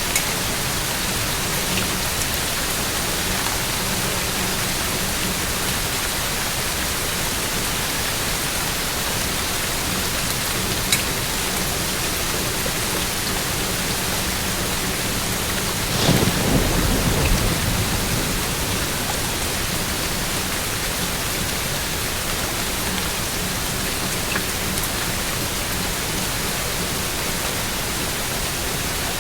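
Steady rain falling, with a roll of thunder rumbling for a couple of seconds a little past the middle.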